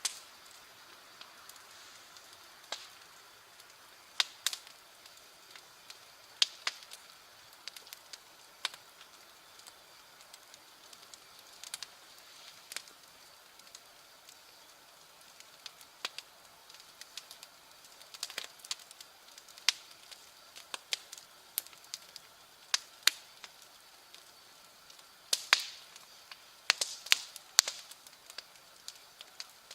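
Wood fire crackling: irregular sharp pops and snaps over a faint hiss, coming thicker near the end.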